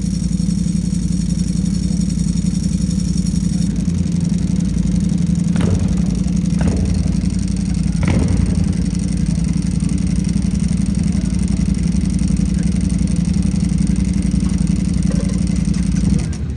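Motorcycle engine running steadily at a constant low pitch with no revving. A few light clicks come in the middle.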